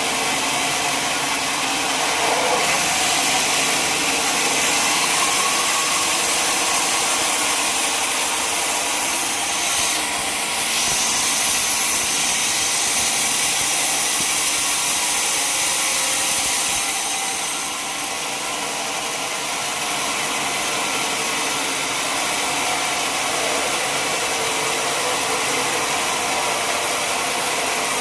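Sawmill saw cutting through a log: a loud, steady sawing noise with the mill's engine running beneath it, shifting briefly about ten seconds in.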